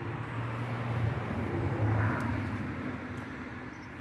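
Low engine drone of a passing motor vehicle: it swells to a peak about halfway through, then fades.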